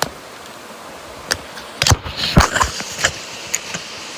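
Knocks, clicks and rustles of a phone being handled and clothing being moved close to the microphone, with the loudest bumps about two seconds in, over a steady hiss.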